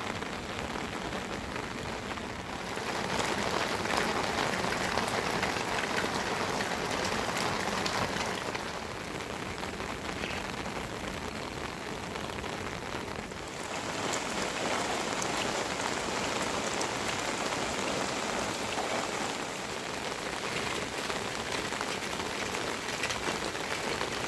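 Steady rain falling, growing heavier about three seconds in, easing around the middle, then heavier again.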